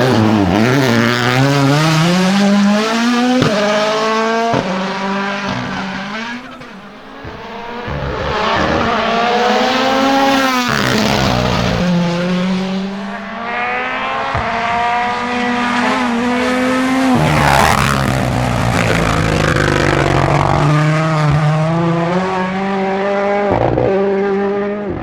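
Ford Puma Rally1's 1.6-litre turbocharged four-cylinder engine at full throttle, its pitch climbing and dropping sharply again and again as it shifts through the gears, with sharp cracks at several of the shifts.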